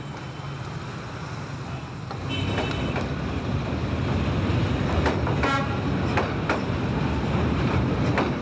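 Passenger train rolling past close by on a steel truss rail bridge: a low rumble that grows louder about two seconds in, with wheels clacking over the rails. Brief high tones come about two seconds in and again about five seconds in.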